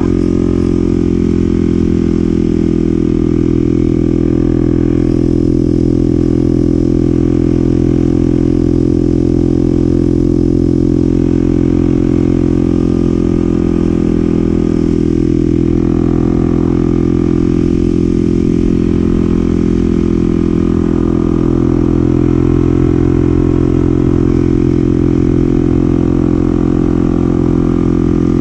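Kawasaki KLX300SM's single-cylinder four-stroke engine running at a steady highway cruise, around 47 to 49 mph. The engine note holds even, with only slight rises and falls in pitch.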